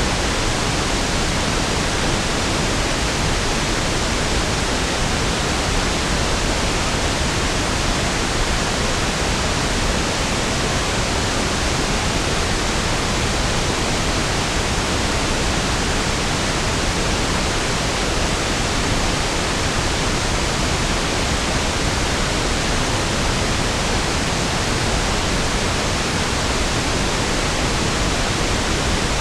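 Steady pink noise (1/f noise): an even, unchanging hiss, fuller and deeper than white noise, with no events or changes.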